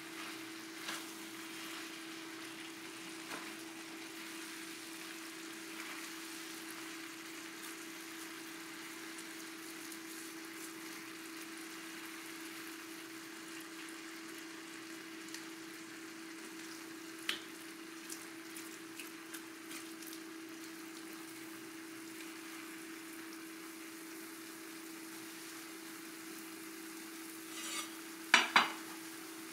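Fried rice sizzling steadily in an enameled cast iron skillet, stirred with a wooden spatula that now and then scrapes and taps the pan. Near the end come two sharp knocks of a cleaver on a wooden cutting board.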